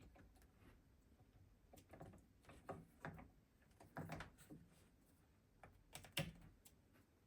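Faint scattered clicks and light knocks of parts being handled during repair of a Flymo lawnmower, over near silence.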